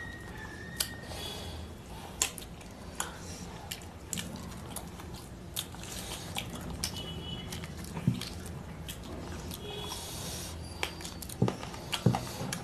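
A person chewing and biting on curried chicken pieces on the bone, with scattered small wet clicks and crunches.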